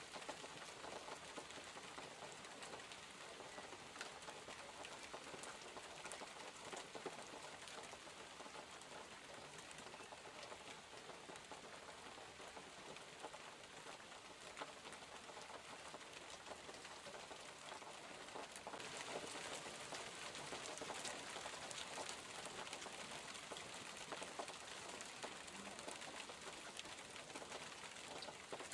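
Steady rain falling, a dense patter of drops over an even hiss, growing heavier about two-thirds of the way in.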